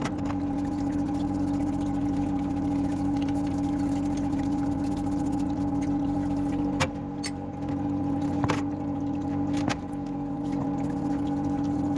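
A steady machine hum with a clear held pitch, with three brief clicks in the second half.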